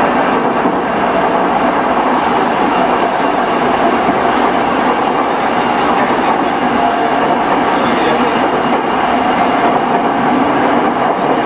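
E217 series electric multiple unit running on the track: a steady rumble of wheels on rails at an even speed.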